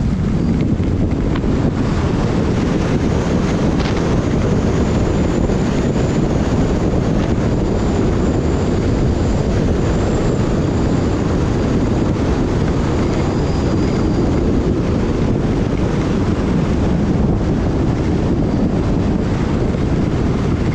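Wind buffeting the microphone of a skier's camera during a fast downhill run: a loud, steady rushing noise.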